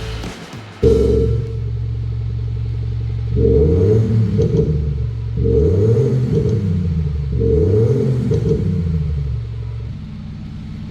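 BMW X4 with an Xhaust active electronic exhaust sound system, giving a synthetic V8-style exhaust note. It cuts in about a second in at a steady idle, then revs three times, each rising and falling, about two seconds apart, and drops to a quieter idle near the end.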